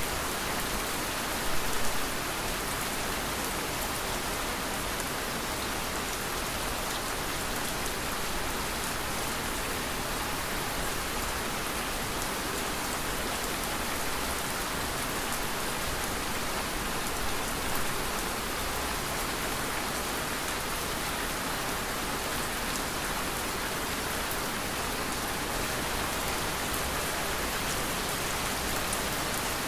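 Steady rain falling, an even hiss of drops with no pauses, with a brief louder sound about two seconds in.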